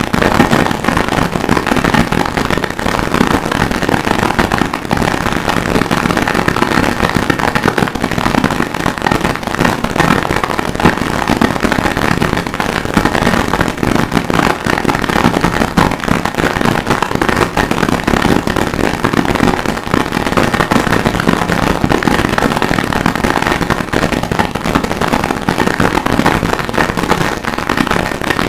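Harsh noise music: a loud, unbroken wall of dense distorted crackle, made from processed sampled audio of blacksmith forge work. No separate hammer strokes stand out.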